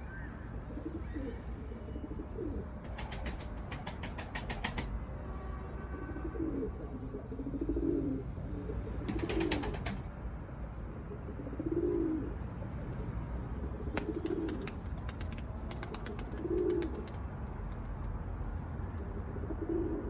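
Domestic pigeons cooing repeatedly, in low calls every few seconds, with bursts of rapid wing flapping about three, nine and fourteen seconds in.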